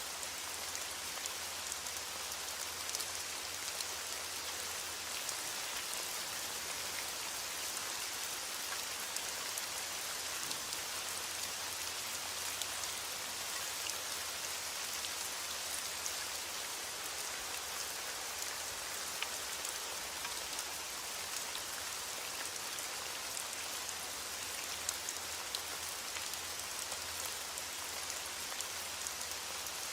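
Steady rain falling, an even hiss with many small drop ticks. No let-up or change in intensity.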